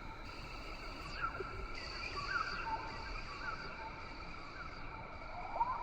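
Rainforest ambience: a steady insect-like drone on several high pitches, with short rising chirping calls about once a second over a low rumble.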